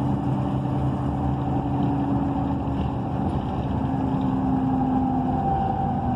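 A transit bus's Cummins Westport ISL G natural-gas engine and Allison B300R automatic transmission running steadily, heard from inside the passenger cabin, with a steady tone holding a nearly even pitch over a low rumble.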